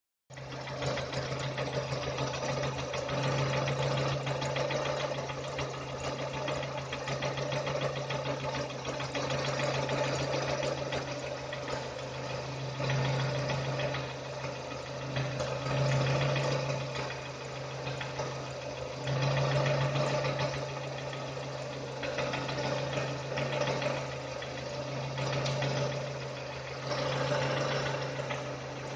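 Nissan Almera G15's 1.6-litre K4M petrol engine idling steadily with a fast clattering knock in its running, the engine knock this video sets out to show.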